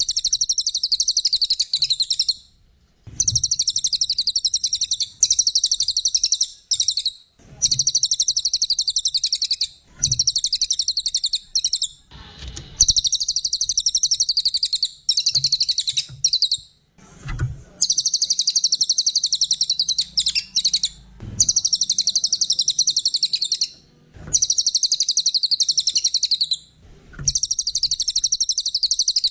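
A cililin, a small songbird, singing a long series of very rapid, high twittering phrases, each two to four seconds long with brief pauses between.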